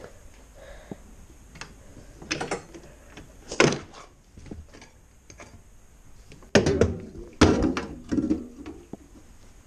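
Scattered knocks and clunks, about half a dozen, the loudest two close together about two-thirds of the way through. No engine is running.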